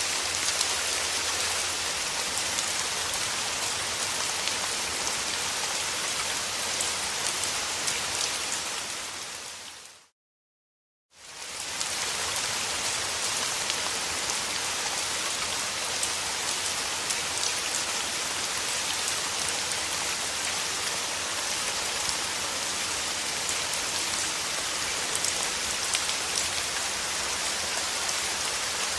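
Steady heavy rain falling on a surface, a dense even hiss with fine patter of individual drops. About eight seconds in it fades out to a second of silence, then fades back in, as at the seam of a looped recording.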